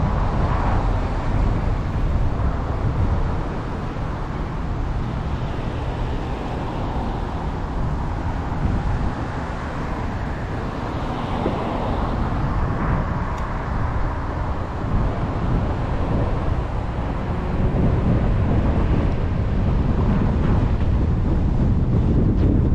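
A car driving through traffic: steady road and tyre noise with a low rumble, swelling and easing a little.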